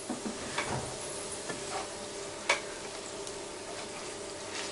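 Chicken pieces and onion frying in a non-stick pan, sizzling steadily, with a few short clicks and scrapes as tongs turn the chicken; the sharpest click comes about two and a half seconds in.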